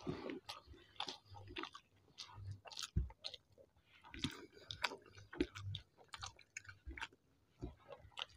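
Faint close-up chewing and wet mouth sounds of people eating rice and hilsa fish by hand, with many soft, scattered clicks.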